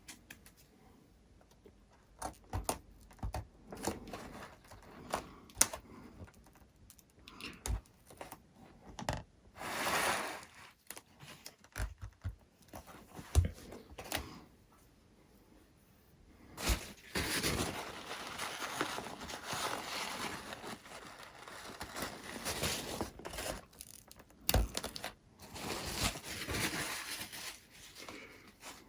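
Workbench handling noises: scattered clicks and knocks, then a long stretch of rustling and scraping with one sharp knock near the end, as small parts and materials are handled.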